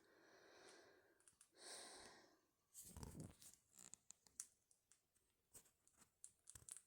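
Near silence: faint scattered clicks and a few soft breathy sounds close to the microphone.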